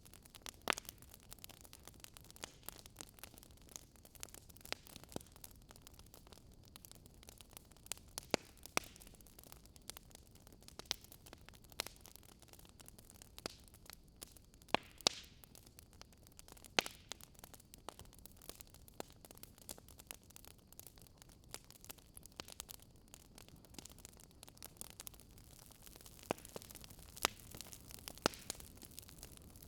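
Wood fire burning in a fireplace, crackling with irregular sharp pops and snaps, a few much louder than the rest, over a faint steady hiss.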